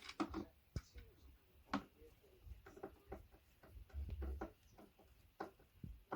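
Scattered light clicks and small knocks of flat-pack furniture parts and fittings being handled, a few of them sharper than the rest.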